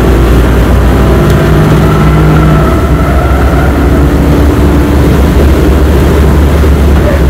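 Lincoln Mark VIII's 4.6-litre V8 pulling hard at full throttle at high revs, heard from inside the cabin over wind and tyre noise. It shifts up once partway through and keeps accelerating.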